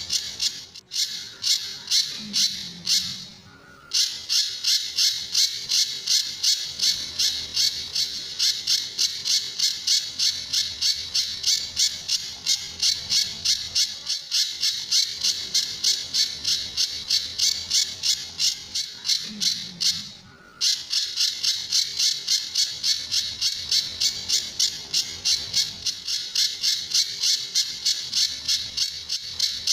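Pijantur bird calling in a rapid, even series of sharp, harsh notes, about three a second, with two brief pauses, one about three seconds in and one about twenty seconds in. This is the pijantur's characteristic 'tembakan' (shot-like) song used as masteran to train other birds.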